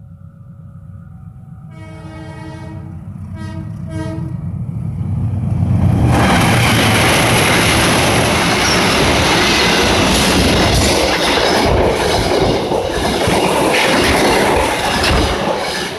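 An approaching train sounds its horn in a few short blasts about two seconds in. It then passes at speed, with a loud, steady rush of wheels on the rails that eases off near the end.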